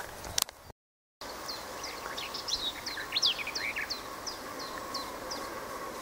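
Wild birds singing: a run of short, high, downward-sliding notes repeated about three times a second, with other birds' chirps beneath. The sound cuts out briefly about a second in.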